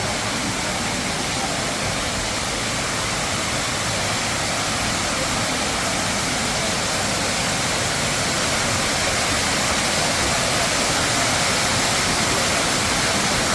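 Steady rushing noise, growing slightly louder.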